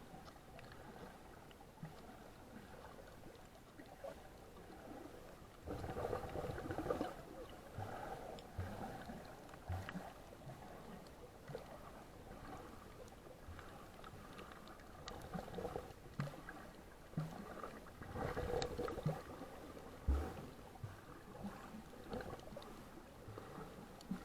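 Water sloshing and gurgling around the microphone, with scattered small knocks and two louder spells, about six seconds in and again about eighteen seconds in.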